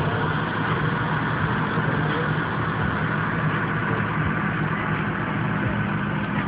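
2001 Ford SVT Lightning's supercharged 5.4-litre V8 running steadily, a low even hum with no revving.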